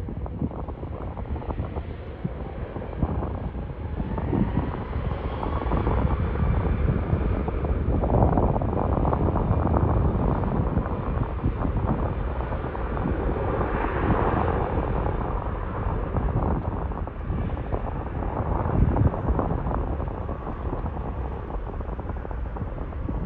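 Jet airliner engines running as the aircraft passes, a rumbling roar with a faint gliding whine that grows louder a few seconds in and eases slightly near the end. Wind buffets the microphone.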